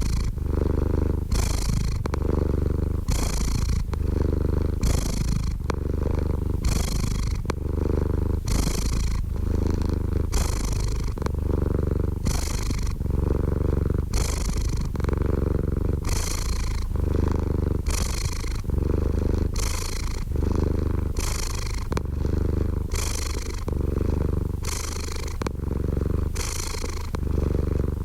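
Domestic cat purring steadily and close up, a low rumble that swells and eases with its breathing about once a second.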